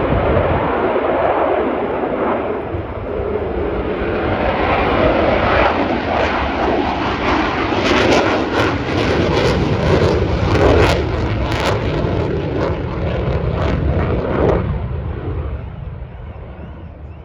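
Military jet aircraft flying past, a loud engine roar with sharp crackling through the middle that fades away as it leaves, about two seconds before the end.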